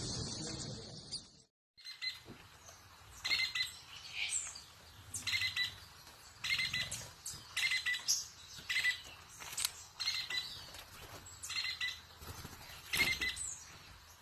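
A bird calling over and over in short, sharp notes, about one call a second. Before the calls begin, a steady high hiss, like insects, cuts off abruptly about a second and a half in.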